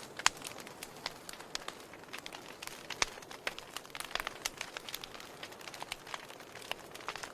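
Wood fire burning in a fireplace, crackling with irregular sharp pops over a soft steady hiss.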